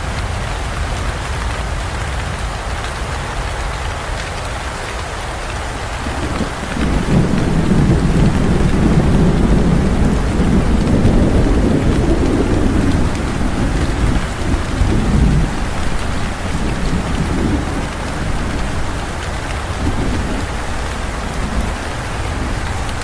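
Steady rain falling in a thunderstorm. About six seconds in a deep roll of thunder swells up, rumbles for several seconds, then fades away in uneven low rolls.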